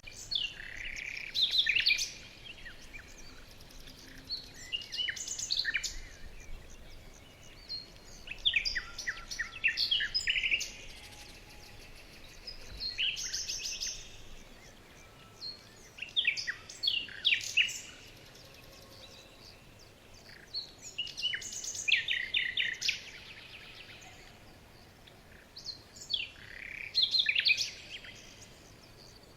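A songbird singing: short phrases of high, falling whistles and rapid trills, repeated about every four to five seconds with quiet gaps between.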